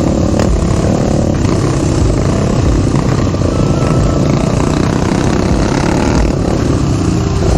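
Crossfire RM250 dirt bike running under way, its engine mixed with a steady rush of wind noise.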